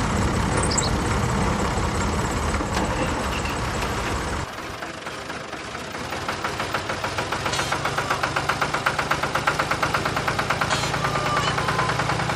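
Engine sound with a steady chugging beat, about five or six pulses a second, that grows more distinct about halfway through.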